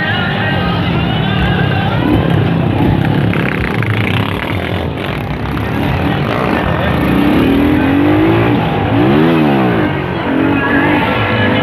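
Vehicle engine revving: the pitch climbs and drops several times, with quick up-and-down throttle blips in the second half.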